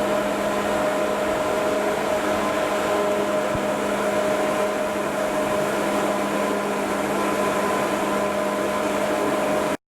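Steady machinery running: a constant whirring noise with a fixed hum, unchanged throughout, cutting off abruptly just before the end.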